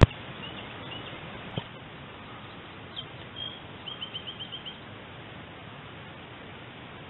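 A small bird chirping, with short high notes early on and a quick run of about seven chirps around the middle, over a steady outdoor hiss. A sharp click right at the start, from the camera being handled.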